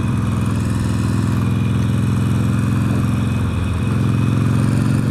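Motorcycle engine running steadily under way, heard through a microphone tucked inside the rider's helmet, with a brief waver in the engine note about three and a half seconds in.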